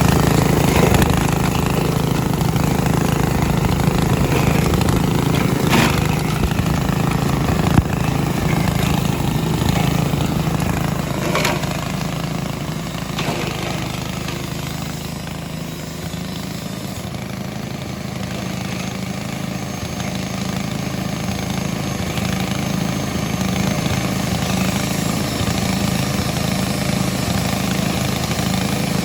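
Engine of a grass chopper running steadily, easing off a little around the middle of the stretch and building back up, with a few short sharp knocks in the first half.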